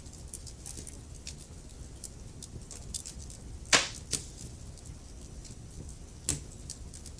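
Wood fire burning in a fireplace: a steady low rumble with frequent small crackles and a few sharp pops from the logs, the loudest a little under four seconds in and another just after six.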